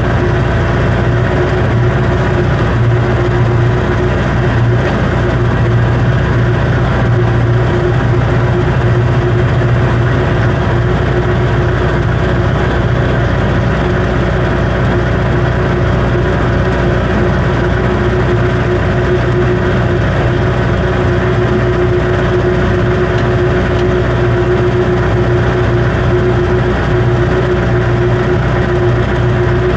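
Farm tractor engine running steadily under load while it pulls a manure spreader, heard from inside the cab as a constant low hum with a steady tone above it.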